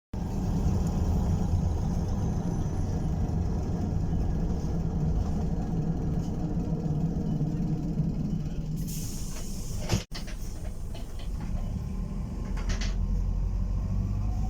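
Optare Solo SR single-decker bus heard from inside while running: a steady low engine and road rumble. About nine seconds in there is a short burst of air hiss and a sharp click, followed by a few knocks and rattles and a second brief hiss.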